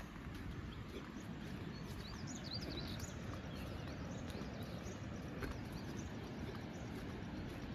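Small birds chirping, with a quick cluster of short calls about two to three seconds in and a few scattered ones after, over a steady low rumble of outdoor background noise.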